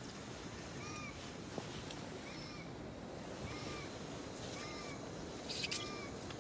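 Distant Japanese green pheasant calling: a series of about five short, arched notes, roughly one a second. A few faint clicks near the end.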